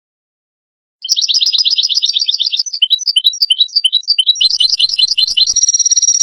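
European goldfinch singing: a rapid twittering run of quick repeated high notes and trills, starting about a second in and ending on a falling note.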